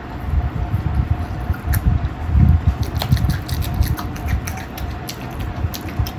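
Close-miked chewing and lip-smacking while eating spicy chicken feet and offal curry with rice: wet squelches with many quick clicks and smacks, and heavy low thumps of the chewing.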